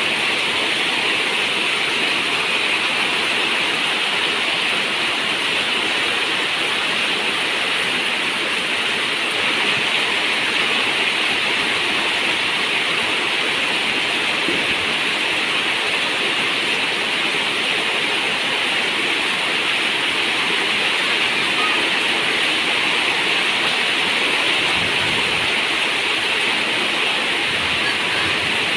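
Steady, dense rain on a zinc roof: an even hiss with no single drops standing out.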